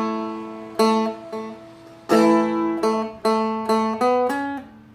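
Seagull Merlin, a small four-string strummed dulcimer-style instrument, strummed in a steady rhythm of ringing chords over a sustained drone. Near the end a few quicker strokes step upward in pitch.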